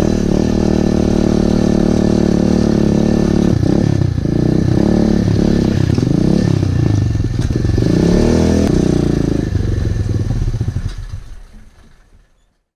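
Pit bike engine running at steady revs, then revved up and down with the throttle from about four seconds in, fading away over the last two seconds.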